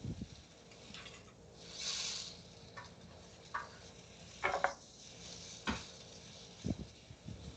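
Chicken pan-frying in oil with a faint sizzle and a brief louder hiss about two seconds in, among scattered clicks and knocks of kitchen utensils and dishes.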